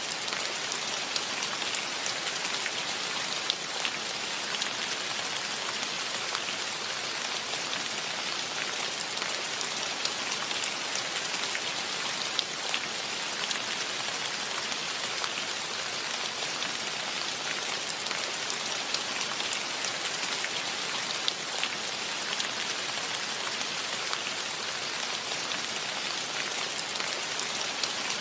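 Steady rain falling, an even hiss with many single drops ticking on surfaces throughout.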